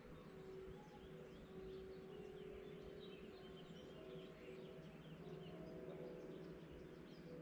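Faint morning birdsong: many short chirps from small birds, busiest in the middle, over a steady low hum.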